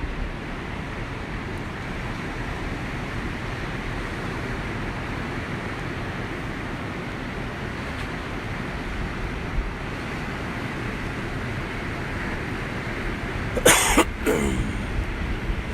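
Steady rushing wind and distant surf, with a brief cough-like burst about fourteen seconds in.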